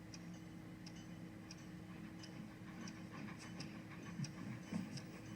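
A clock ticking steadily, about one tick every two-thirds of a second, over a low hum, with a few soft low thumps in the second half.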